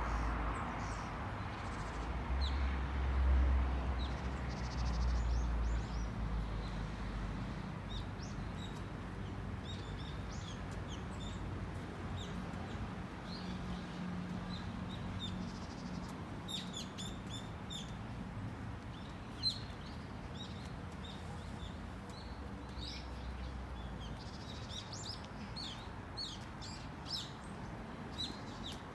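Small forest birds chirping and calling again and again in short high notes, with a quick run of chirps about halfway through. A low rumble underneath is loudest in the first several seconds, and there is a single sharp tap about two-thirds of the way in.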